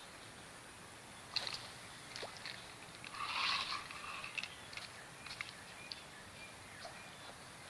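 Quiet waterside ambience by a fishing spot: scattered faint chirps and small ticks, a sharp click about a second and a half in, and a brief louder rustle about three and a half seconds in.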